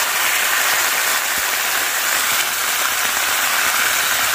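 Steady rain falling on a roof overhead, an even hiss of drops.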